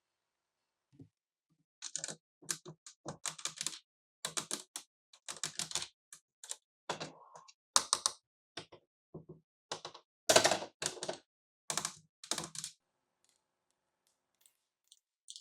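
Plastic parts of a toy cash register playset clicking and tapping in quick clusters for about ten seconds, then stopping.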